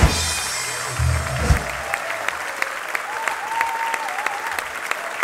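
Audience applauding steadily just as the band's final chord cuts off. A faint wavering whistle-like tone comes through the clapping near the middle.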